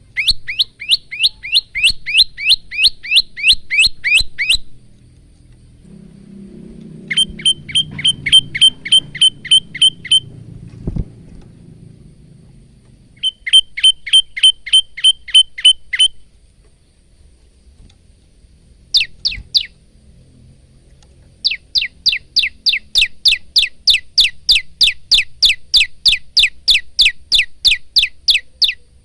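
Male olive-backed tailorbird singing: bursts of sharp, rapidly repeated chirps, about three a second, each run lasting a few seconds with short pauses between, and one much shorter run near the middle.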